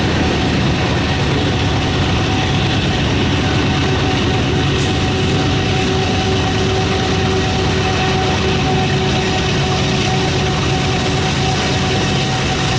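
Diesel locomotives working on the mountain grade: a steady, heavy engine drone with a thin steady whine above it.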